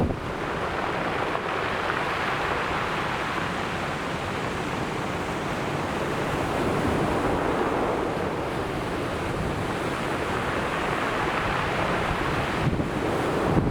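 Ocean surf washing on the shore, a steady rushing wash that slowly swells and eases. Near the end, wind starts buffeting the microphone.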